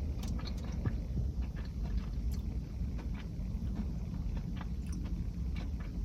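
Chewing a chocolate bar with cookie pieces, heard as scattered small crunches over a steady low rumble of wind on the microphone.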